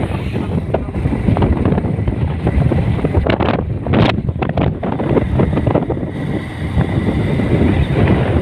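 Wind buffeting the microphone on a moving motorcycle, a loud rough rumble with road and engine noise underneath, and a few stronger gusts about halfway through.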